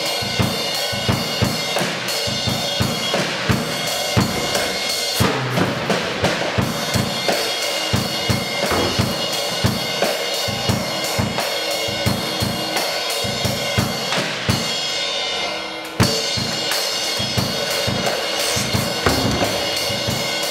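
Drum-kit solo: fast, dense bass-drum and snare strokes under a continuous wash of cymbals, with a brief lull and then a hard accent about sixteen seconds in.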